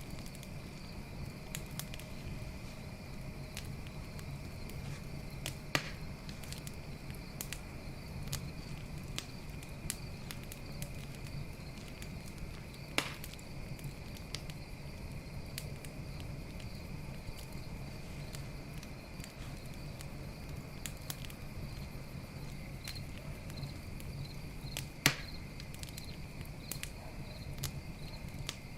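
Campfire crackling with frequent small snaps and three louder pops, over a steady high chirring of night insects.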